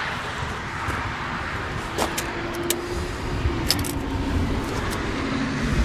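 The New Holland T4.100's four-cylinder turbo diesel engine idling steadily, with a few sharp clicks partway through.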